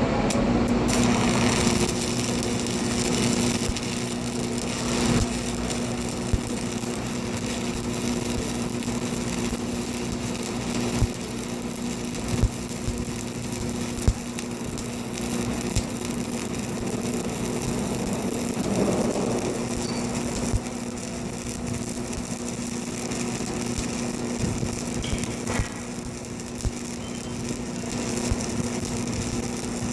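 Electric arc welding: a steady crackling hiss from the arc over a constant hum, with a few sharp clicks scattered through.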